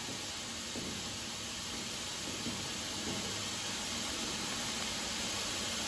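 A steady, even hiss, creeping up slightly in loudness, with nothing else standing out.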